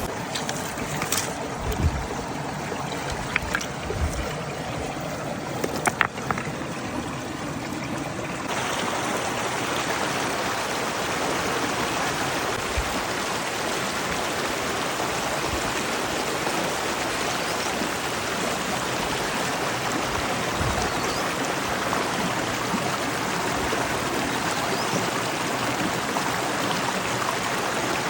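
Stream water running steadily, with a few sharp knocks in the first six seconds. About eight seconds in, the water sound becomes fuller and brighter.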